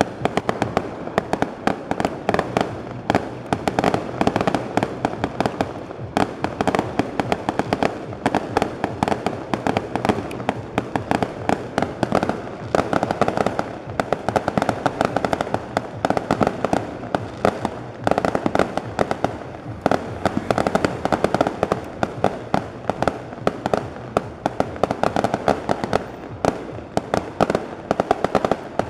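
Fireworks going off in a dense, continuous barrage: rapid sharp bangs and crackling, many each second, with no pause.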